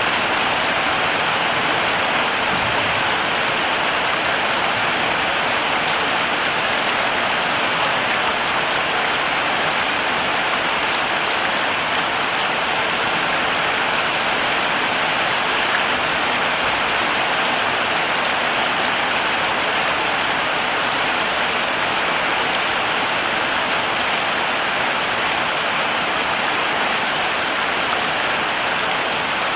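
Heavy rain falling steadily in a dense, even hiss, with no let-up.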